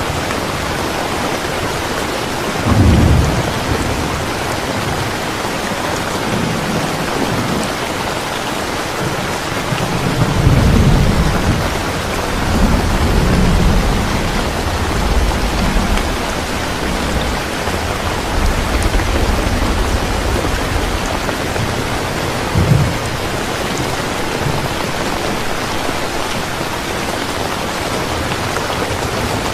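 Steady heavy rain with thunder: a short rumble about three seconds in, a longer rumble starting about a third of the way through and lasting several seconds, and another short rumble about three quarters of the way through.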